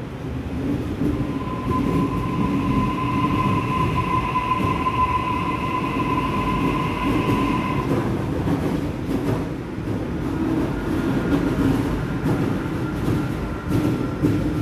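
Sydney Trains electric train running, with a low rumble throughout. A steady high-pitched whine is heard from about two to eight seconds in, and a fainter whine comes in near the ten-second mark.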